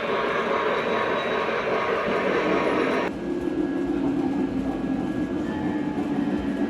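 O scale three-rail model train running on the track with a steady rolling noise; about three seconds in the sound changes abruptly to a quieter running sound with a steady hum.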